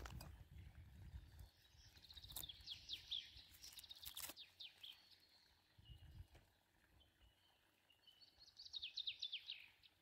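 A songbird singing two quick runs of falling chirps, one about two seconds in and another near the end, faint against outdoor quiet. A few sharp crackles from the small dry-twig fire come between them.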